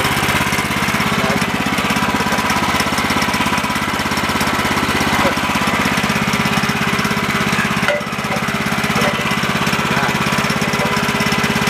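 Woodland Mills HM130 Max sawmill's gas engine running steadily, with a brief dip about eight seconds in.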